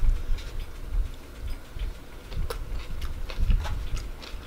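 A person chewing a mouthful of cheesy noodles close to the microphone: scattered soft wet mouth clicks and smacks.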